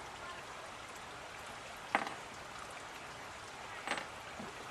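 Two sharp clicks of metal hand tools being handled, a couple of seconds apart, over a steady hiss.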